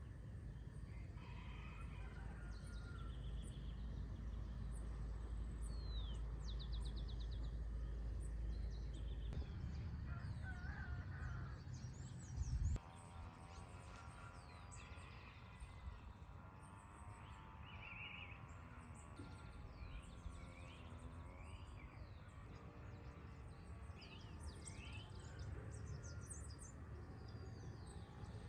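Several birds chirping and calling over a low background rumble. There is a short, loud thump about thirteen seconds in.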